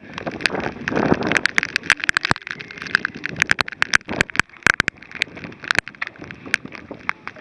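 Raindrops striking close to the microphone as many irregular sharp ticks over a steady windy hiss, in a storm.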